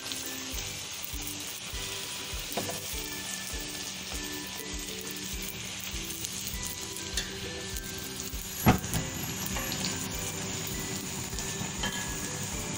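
A puri deep-frying in hot oil with a steady sizzle, pressed under a wire skimmer. One sharp knock about nine seconds in.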